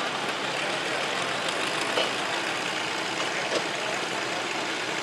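Tractor engine running steadily, with two brief clicks partway through.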